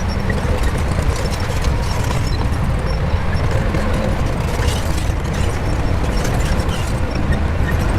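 Shantui bulldozer's diesel engine running steadily under a loud low rumble, with scattered clanks and rattles from the machine's tracks as it works.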